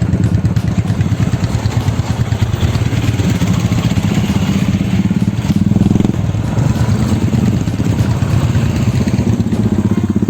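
Royal Enfield motorcycle engine running under way, with a rapid, even exhaust beat. The beat dips briefly about six seconds in, then picks up again.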